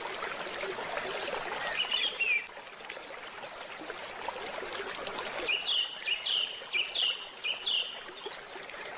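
Gently flowing stream water with birds chirping: a short call about two seconds in, then a run of about six quick chirps from about five and a half to eight seconds.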